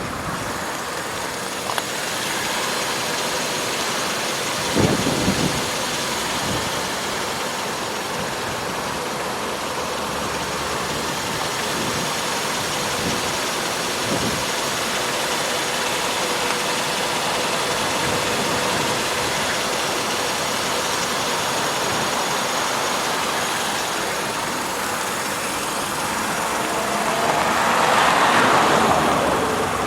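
2011 Kia Carens running, its 2.0-litre inline-four engine and road noise making a steady wash of sound, with a few light knocks early on and a swell in loudness near the end.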